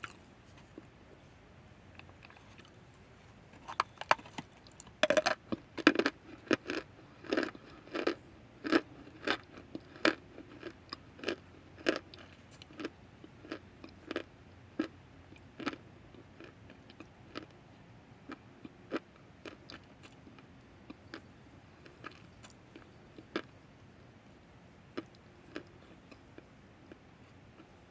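A person chewing chunks of cornstarch close to the microphone: a run of crisp crunches, about one and a half a second, loudest from about four to sixteen seconds in, then thinning out to softer, occasional crunches.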